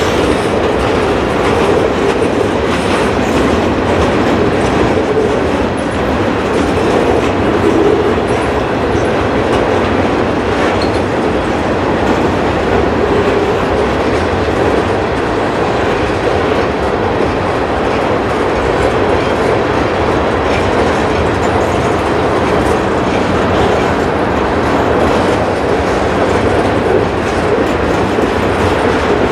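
Boxcars and centerbeam flatcars of a long freight train rolling past at steady speed: the continuous sound of steel wheels on the rails, with many faint clicks running through it.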